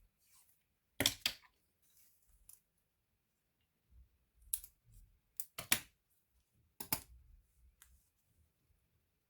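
A series of sharp clicks and light knocks, some in quick pairs, as of laptop parts and small tools being handled during disassembly.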